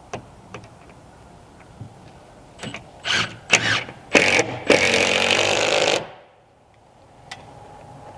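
A few light knocks, then a handheld power tool started in several short bursts before running steadily for about a second and stopping suddenly.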